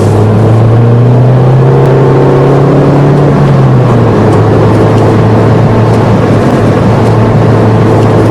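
Car engine running steadily while driving. Its pitch rises a little from about half a second in, falls back near four seconds, then holds steady.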